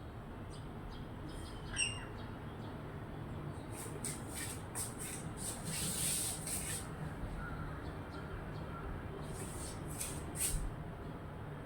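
Parrot squawking: one sharp, falling high call about two seconds in, then a run of short, high squawks and chirps through the middle.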